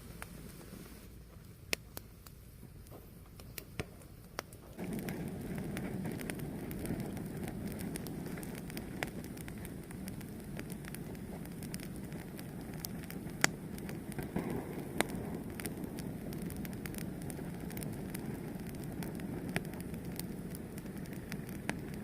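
A wood fire crackling, with scattered sharp pops. About five seconds in, a steady low rushing noise sets in beneath the crackle and holds.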